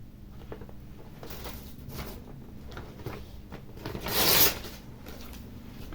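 Handling noise from the tablet being moved and worked on: light rustles and small clicks, with one louder half-second scraping rustle about four seconds in.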